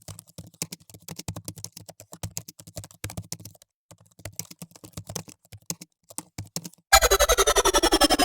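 Rapid, irregular clicking, like typing on a keyboard, for about seven seconds. Then a loud, fast-pulsing sound with a falling pitch sweep starts suddenly.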